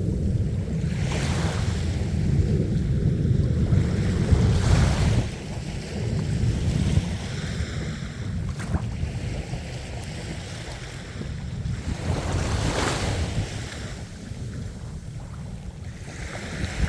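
Ocean surf: waves breaking and washing in, with several hissing surges over a low, steady rumble that is heaviest in the first few seconds.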